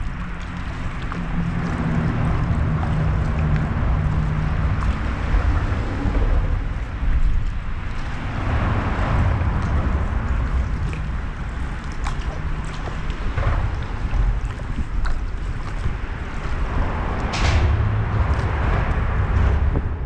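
Wind buffeting the microphone in a heavy low rumble, with water sloshing and splashing around a paddle craft; the rushing swells louder about halfway through and again near the end.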